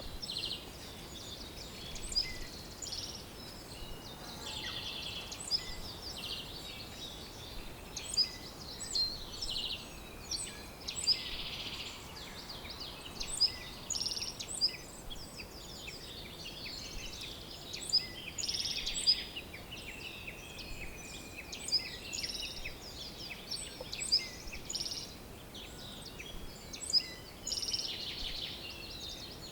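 Several songbirds calling and singing together: many quick high chirps, buzzy trills and a few long, slowly falling whistles, over a faint steady background hiss.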